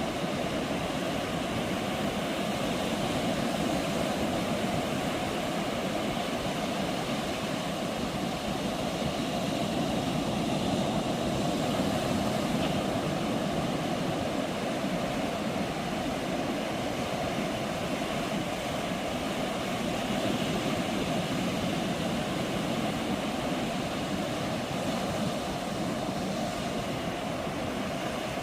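Ocean surf breaking on a beach: a steady rushing roar that swells and eases slightly every several seconds.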